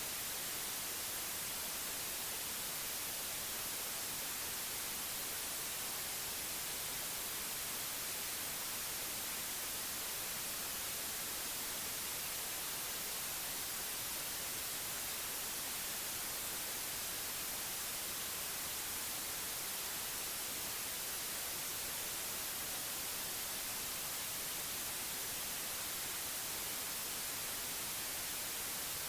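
Steady white noise, an even hiss with most of its weight in the high end, unchanging throughout.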